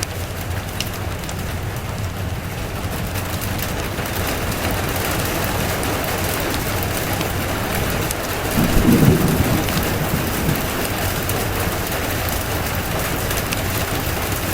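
Steady rain falling, with a short low roll of thunder a little past the middle. Faint fireplace crackles tick over the rain.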